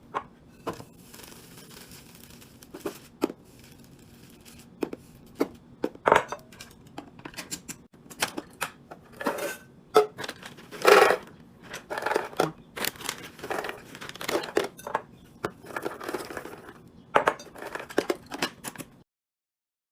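Restocking sounds: packaging crinkling and tearing, mixed with irregular sharp clicks and knocks as items and containers are handled. The sounds cut off abruptly near the end.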